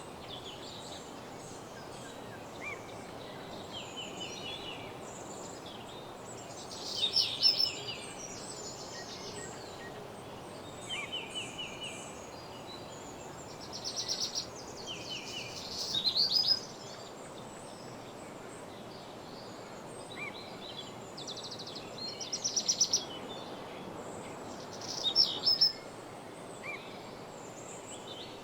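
Woodland birdsong: short, rapid trilled phrases of repeated high notes come every few seconds, several of them louder, over a steady background hiss.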